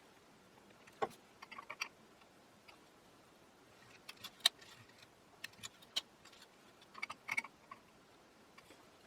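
Small, sharp clicks and taps of hand work on the radio's tuning dial and its small parts, in scattered clusters with quiet between them.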